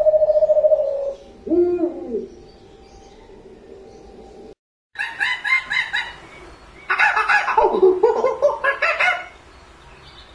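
A rooster crowing, after the tail of another animal's call and a brief cut in the recording.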